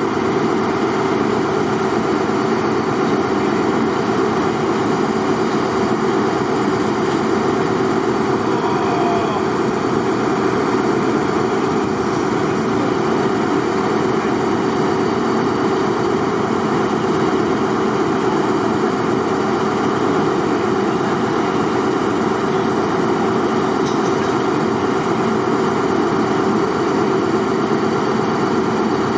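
Diesel locomotive engine running at a steady idle, with a constant hum.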